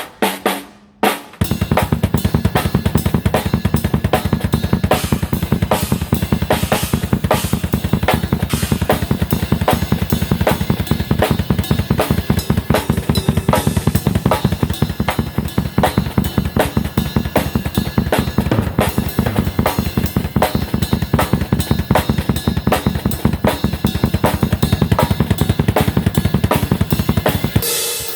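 Drum kit played fast and steady, with rapid bass drum and snare strokes under cymbals. It starts about a second in and stops shortly before the end.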